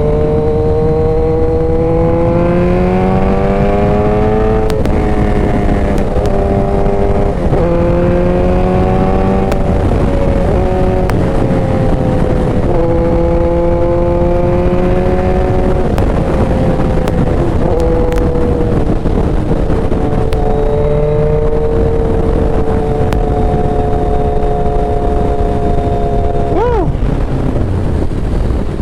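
Motorcycle engine running under way, its pitch climbing and then dropping back at a few gear changes before settling to a steadier cruise, with a constant rush of wind and road noise.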